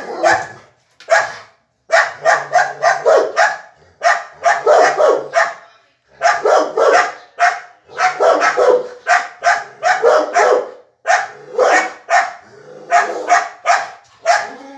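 A dog barking in rapid volleys of several short, sharp barks a second, with brief pauses between runs. This is excited barking at another animal.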